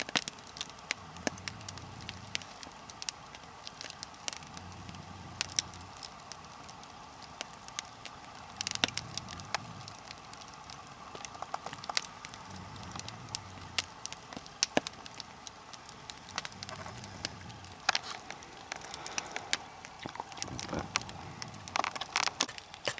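Spruce-log nodya fire crackling, with many small pops and a few louder snaps, which are typical of resin pockets in the spruce bursting.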